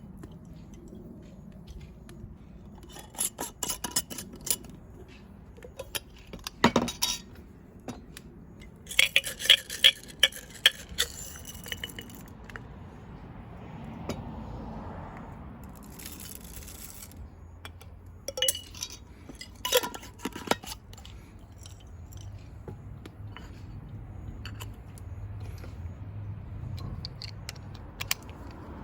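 Cookware and utensils being handled: scattered clinks, knocks and scrapes in several short clusters, some of them with a brief ringing tone.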